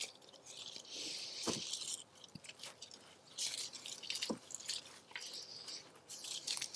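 Small garden plants and soil handled by hand, rustling and crunching in a few short bursts with a couple of light clicks, as when young pepper plants are pulled out of a raised bed.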